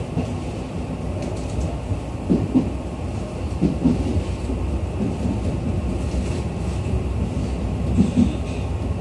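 Tobu 8000 series electric train running at speed, heard from inside the passenger car: a steady low rumble of wheels on rail, with brief louder knocks in pairs three times.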